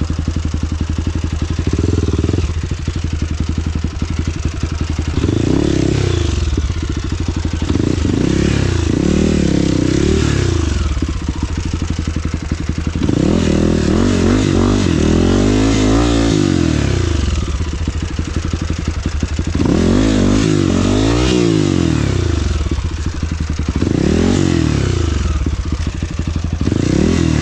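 Off-road motorcycle engine running on a trail ride, its revs rising and falling as the throttle is opened and closed, in about five surges.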